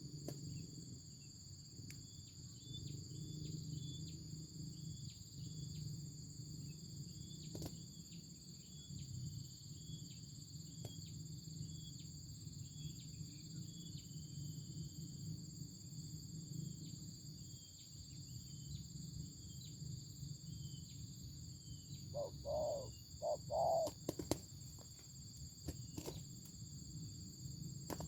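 Steady high-pitched insect chorus, with crickets or cicadas holding two even tones, over a low rumble. About twenty-two seconds in, four short, louder low calls come quickly one after another.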